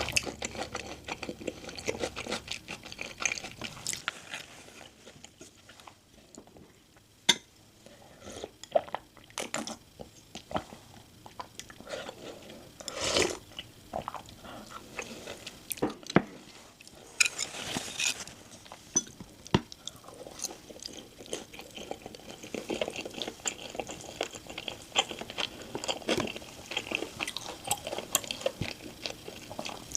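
Close-miked eating sounds: a person chewing and crunching food, with irregular crackles and a few sharp, loud crunches.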